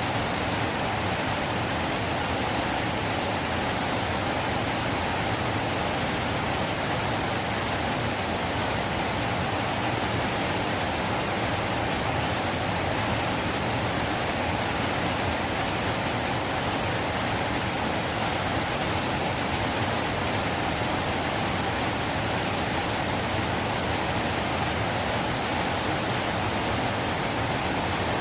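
River water rushing past, a steady, unbroken hiss of flow that holds the same level throughout.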